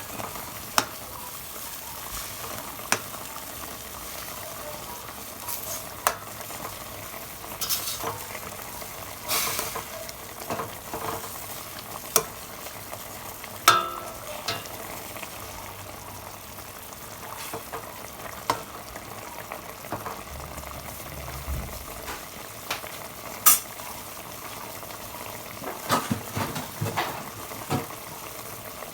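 Chicken adobo sizzling and simmering in a pan as its sauce reduces over medium heat, while a spoon stirs it and knocks sharply against the pan, with a quick run of clinks near the end.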